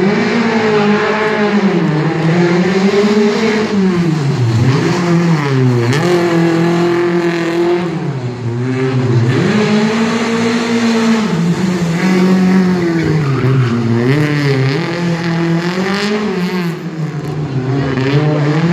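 Car engine revving up and easing off over and over, its pitch climbing and dropping every second or two, as the car accelerates and brakes between the obstacles of a tight gymkhana course.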